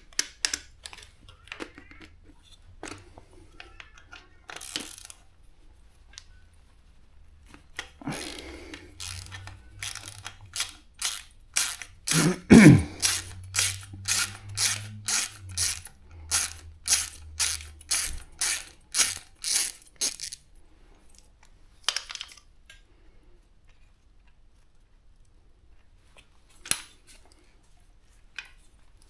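Hand-tool work in a workshop: scattered metal clicks, then a long run of even clicks at about two a second, with one heavy knock partway through.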